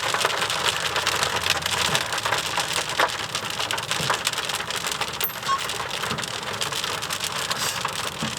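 Rain hitting a car's roof and windshield: a dense, steady patter of drops.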